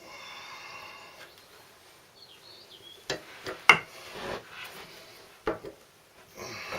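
Metal tool clinks and scraping while a wrench works on the rusty mower's blade bolt: a short ringing scrape at first, then a few sharp metal knocks.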